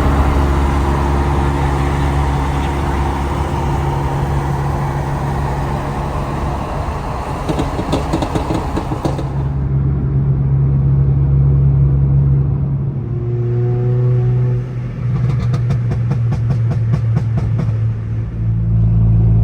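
Car engine running with road and tyre noise while driving. About nine seconds in, the road noise drops away as the car slows, leaving the steady engine hum at a lower pitch.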